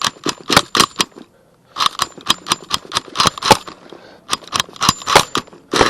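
HPI 4.1 nitro RC engine being pull-started: several yanks of the recoil starter, each a quick run of sharp clicks as the engine turns over to prime it. The engine catches and starts running right at the end.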